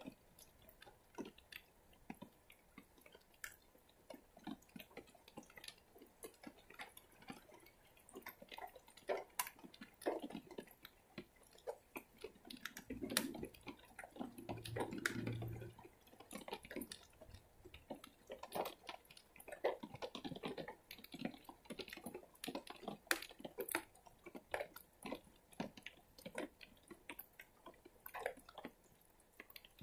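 Rain dripping close by: irregular drops tapping and clicking over a faint rain hiss. A brief low rumble about halfway through.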